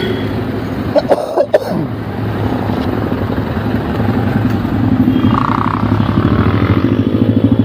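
Motorcycle engine running on the road, with a couple of sharp knocks about a second in. The engine picks up and gets louder through the second half, its pitch rising near the end as it accelerates.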